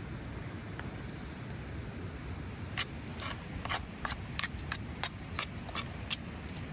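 Steady outdoor rumble, and from about three seconds in a run of about a dozen sharp taps, roughly three a second, from kitchen utensils working the egg-yolk and pepper filling.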